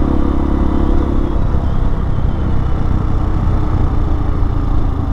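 Hawk 250 dual-sport motorcycle's single-cylinder engine running under way, over a steady low rumble; the engine note eases off about a second and a half in.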